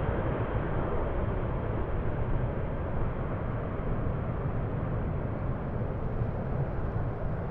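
Steady low rumble of a Lufthansa Boeing 747-400's jet engines at a distance, mixed with gusty wind buffeting the microphone, easing slightly toward the end.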